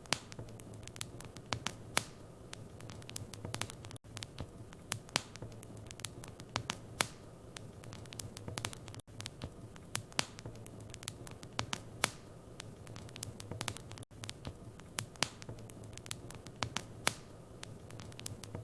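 Wood fire burning in a fireplace, crackling with frequent irregular sharp pops and snaps over a low steady hum. The sound dips out briefly about every five seconds.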